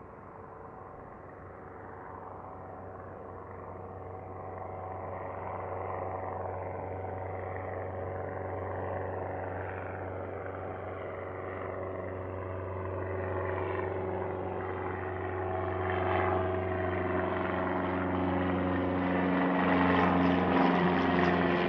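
Propeller airplane engine droning and growing steadily louder as the aircraft approaches, its hum richer and louder near the end.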